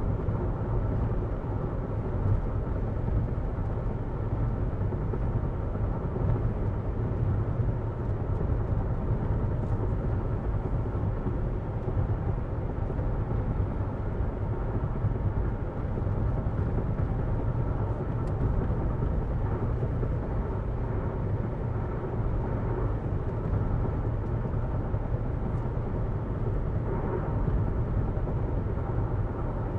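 Road and wind noise inside the cabin of a 2022 Jeep Renegade Latitude on the move: a steady low tyre rumble with a hiss of air above it.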